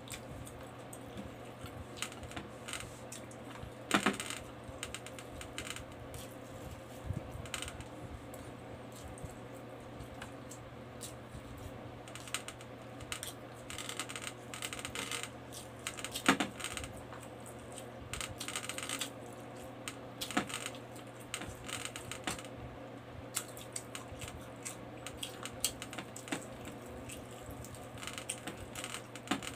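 Close-up eating sounds of rice and adobo pork eaten by hand: chewing and lip smacking, a run of small wet clicks with sharper ones about 4 and 16 seconds in. A steady low hum runs underneath.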